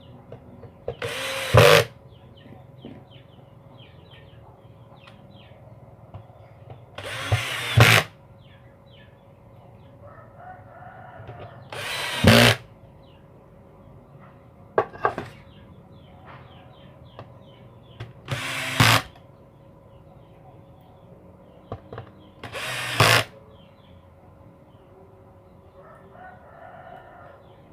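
Cordless electric screwdriver or drill driving screws in six short runs about five seconds apart, each run rising briefly before it stops.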